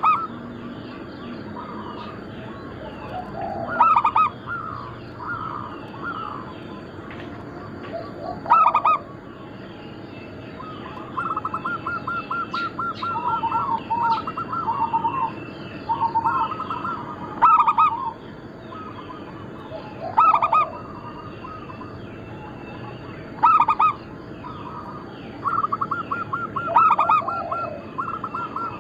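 Zebra doves (perkutut) cooing: loud call phrases every few seconds, several of them with rapid rolling trills. Fainter, higher chirping of small birds runs behind them.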